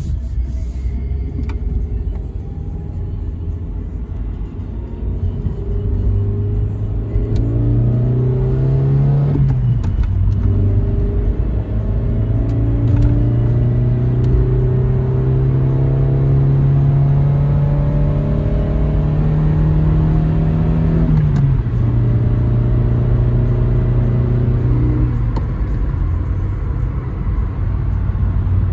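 Toyota Carina E's 1.6-litre 16-valve four-cylinder engine pulling on a road drive. Its pitch rises steadily and falls suddenly at gear changes about 9 and 21 seconds in, then it runs steadily and eases off near the end.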